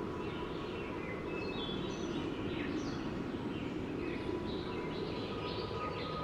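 Steady wind noise with many birds chirping over it throughout, and a faint steady high tone running underneath.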